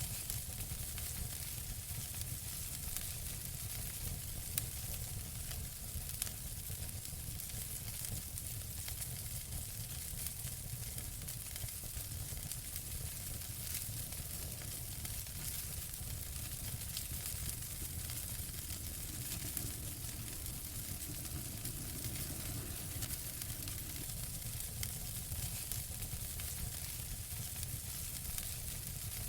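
Wood fire in a fireplace crackling: a steady hiss and low rumble with many small crackles and a few louder pops.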